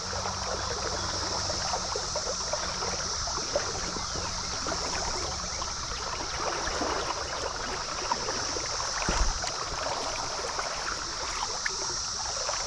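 Stream water running and trickling, with a steady high-pitched drone of insects over it, the chorus of the Brood XIV periodical cicada hatch. There is one low thump about nine seconds in.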